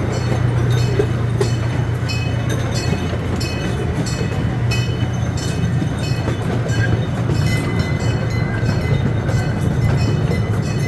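Small amusement-park train running along its track, heard from aboard: a steady low rumble with frequent light clicks and clacks from the wheels and cars.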